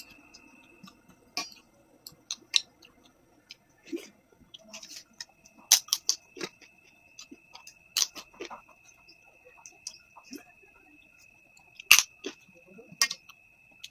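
Close-up eating sounds: chewing with irregular crisp, crunchy clicks and smacks, a few of them sharply louder.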